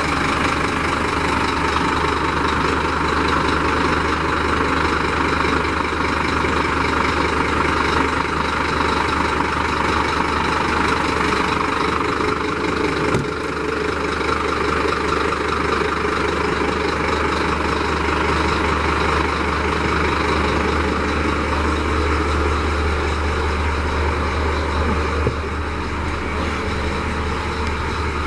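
Scania P310 tipper truck's diesel engine idling steadily.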